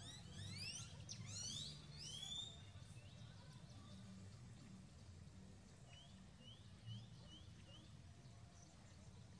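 Small birds chirping faintly: a cluster of many quick, high, upward-sweeping chirps in the first two and a half seconds, then a short run of about five evenly spaced rising chirps around six to seven and a half seconds in, over a faint low background rumble.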